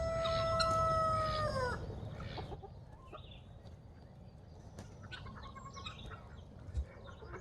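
Rooster crowing: the long held final note of the crow, falling away to an end about two seconds in. Scattered quieter clucks and calls from the flock follow.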